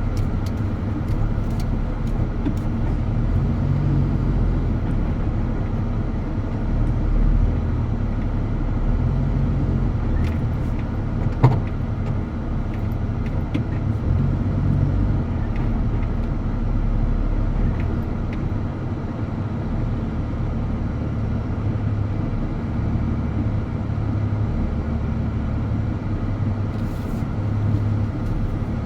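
DAF truck's diesel engine and road noise while driving, heard from inside the cab: a steady low drone, with one sharp knock about a third of the way in.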